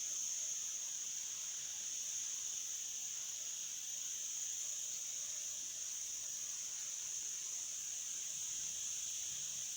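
Steady, high-pitched chorus of insects, one continuous shrill tone with no breaks.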